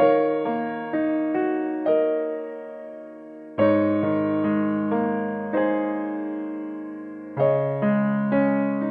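Slow, gentle background music on piano: single notes and chords struck about every half-second to second, each dying away, with fuller chords about a third and four-fifths of the way through.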